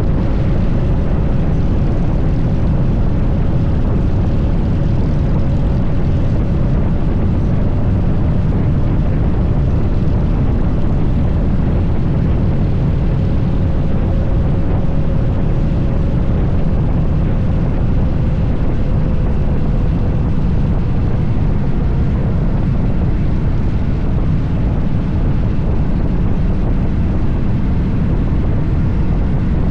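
Harley-Davidson Fat Bob 114's Milwaukee-Eight V-twin engine running steadily under way, a loud unbroken rumble.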